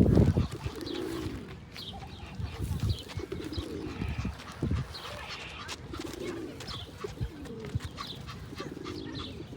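Pigeons cooing in repeated low calls, with smaller birds chirping higher up.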